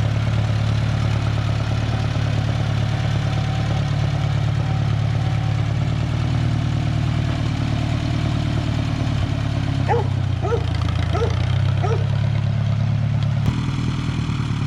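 Old Allis-Chalmers tractor engine running steadily. About ten seconds in there are four short squeaks about half a second apart, and near the end the engine note changes abruptly.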